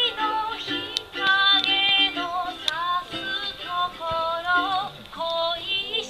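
A high voice singing a melody of sliding, held notes over a low, repeating accompaniment, with a few brief sharp clicks.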